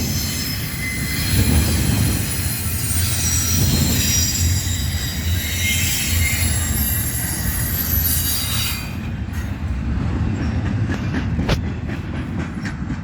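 Railroad train rolling by with its wheels squealing in thin, high tones over a steady low rumble; the squeal stops about two-thirds of the way through, while the rumble goes on. A single sharp clank comes near the end.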